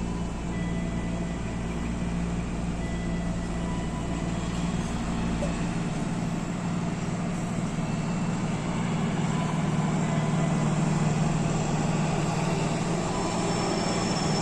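Train running with a steady low engine hum, getting a little louder in the last few seconds.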